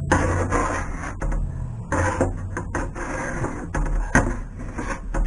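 Irregular scraping strokes as stripper-softened paint is worked off a metal sign, over a steady low hum.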